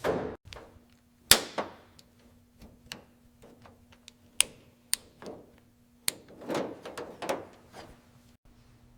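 Irregular knocks, clicks and clatters of hand work in a garage: about a dozen sharp hits spread unevenly, the loudest a little over a second in and a cluster of them near the end, over a faint steady hum.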